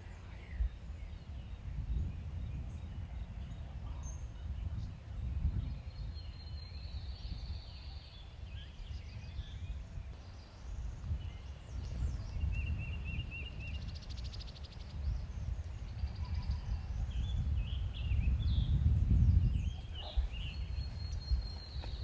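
Strong wind buffeting the microphone in gusts, heaviest about three-quarters of the way through, with small birds chirping and trilling faintly over it.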